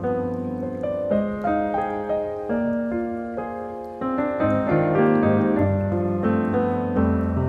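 Soft background piano music: slow held chords and a simple melody.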